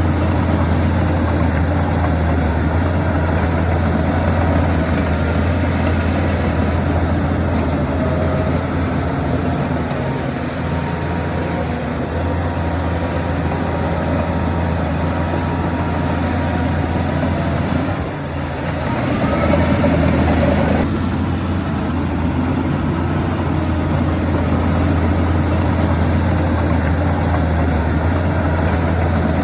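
Heavy diesel earthmoving machinery running steadily, with a deep, constant low hum. It dips briefly about eighteen seconds in, then picks up again for a few seconds before settling back.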